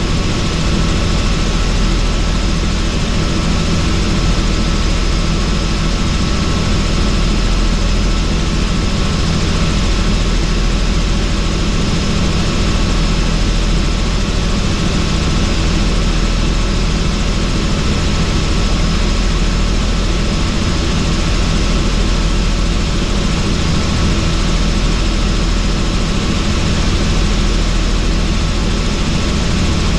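Helicopter in steady flight heard from inside the doors-off cabin: the constant drone of the rotor and turbine engine under a loud, even rush of wind through the open doors.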